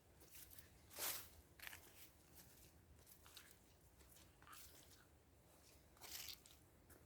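Footsteps on a wet, muddy autumn dirt road: soft, irregular crunching steps, the loudest about a second in and another about six seconds in.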